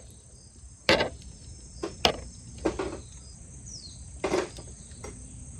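Crickets chirping steadily at a high pitch, with a handful of sharp clicks and knocks spaced about a second apart.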